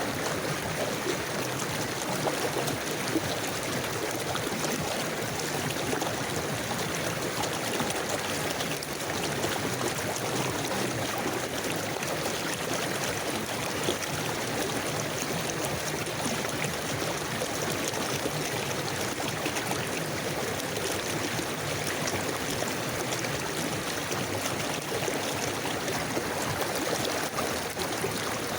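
A river flowing over stones, a steady rush of water with small splashes and gurgles, even throughout.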